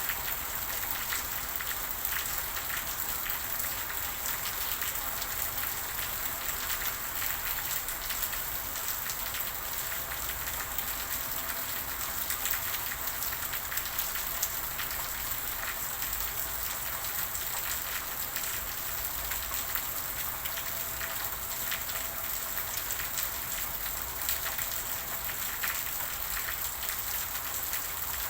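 Steady rain falling and pattering on a surface, with many fine drop ticks.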